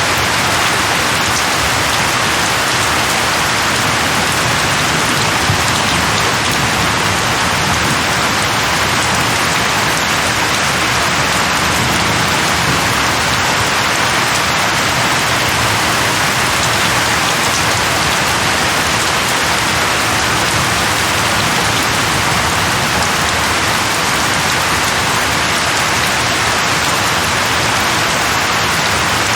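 Steady rain falling on leaves, an even hiss with no breaks.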